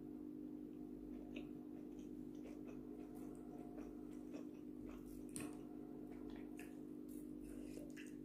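Faint close-up chewing of a mouthful of rice, with scattered small wet clicks and squishes from the mouth and fingers, over a steady low hum.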